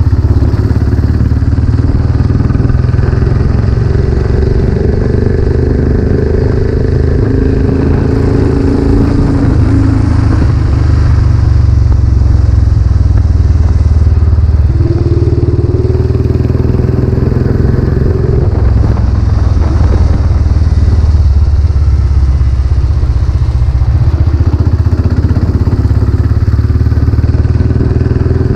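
Royal Enfield Classic 500's air-cooled single-cylinder engine running through a newly fitted aftermarket silencer while riding, its note rising and falling several times with throttle and speed.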